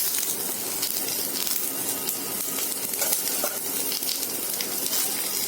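Sliced shallots and freshly added curry leaves frying in hot oil in a pan: steady sizzling with scattered small crackles.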